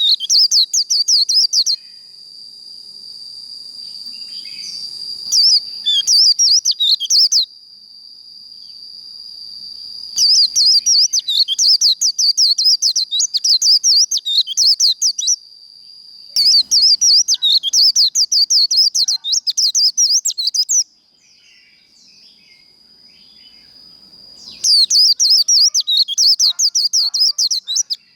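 White-eye (vành khuyên) singing its fast, chattering 'líu' song: five bouts of rapid high warbling, each a few seconds long with short pauses between. A steady high tone runs beneath the song and fades for a few seconds near the end.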